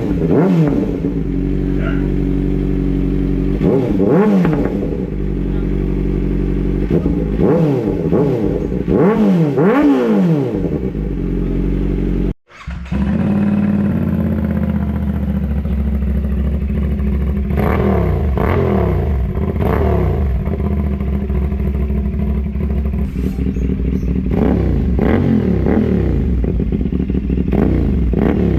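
Motorcycle engine idling and revved in repeated short blips, the pitch rising and falling with each one. About twelve seconds in the sound cuts out for a moment, then an engine idles again with a few more revs.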